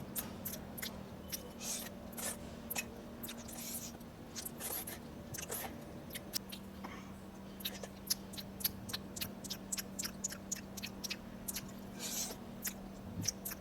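A person chewing sushi close to the microphone: irregular wet mouth clicks and smacks, several a second, with a few short breathy smacks, over a faint steady hum.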